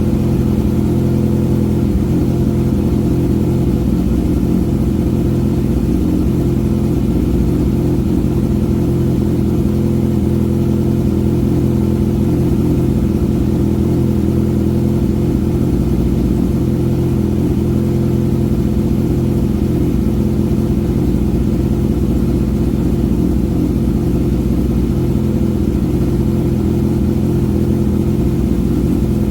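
Kawasaki ZX-6R 636's inline-four engine idling steadily through an M4 GP19 aftermarket exhaust, with an even, unchanging note.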